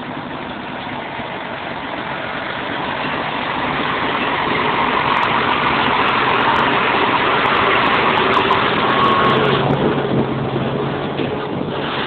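Scania 124 truck's diesel engine running as the truck approaches. It grows steadily louder to a peak about eight to nine seconds in, then eases slightly.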